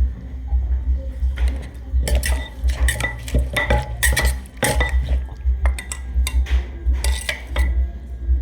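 Utensils clinking and scraping against dishes as a Thai pounded salad is mixed, in a quick run of sharp clinks that thickens about two seconds in. Under it runs a steady low beat.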